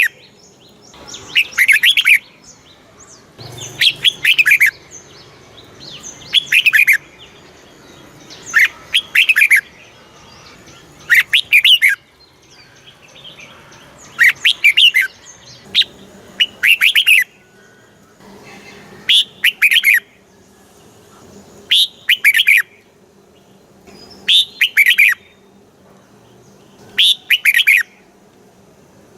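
Red-whiskered bulbul singing: short, bright whistled phrases of about a second each, repeated about every two and a half seconds.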